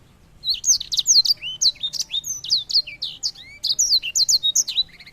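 Small songbird singing a fast, continuous warbling song of high, sharply falling whistled notes mixed with some lower slurred notes, starting about half a second in.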